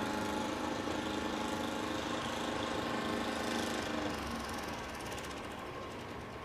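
An engine running steadily at an even pitch, its sound fading gradually after about four seconds.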